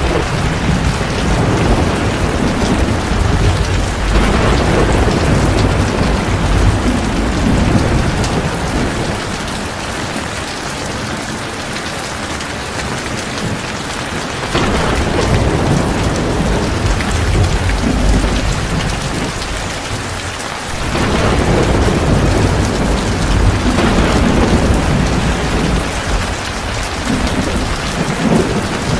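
Heavy rain falling steadily, with deep rolling thunder swelling up three times and easing off between.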